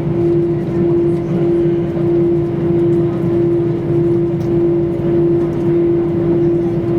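Airliner cabin noise: jet engines running at idle, a steady hum with one constant tone over a low rumble, with no spool-up.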